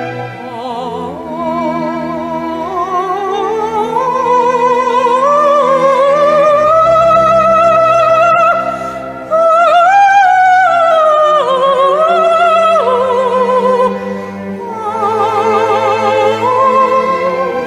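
Soprano singing a wordless vocalise with wide vibrato over sustained orchestral strings. The line climbs slowly to a high held note about ten seconds in, then falls away.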